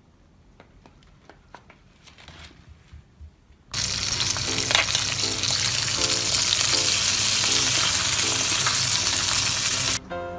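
Mackerel sizzling loudly in a hot frying pan, starting suddenly about a third of the way in and cutting off abruptly near the end, with a few faint clicks before it.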